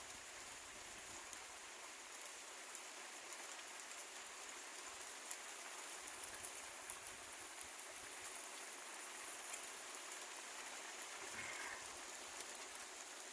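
Rain falling steadily, an even hiss with scattered sharp drop ticks.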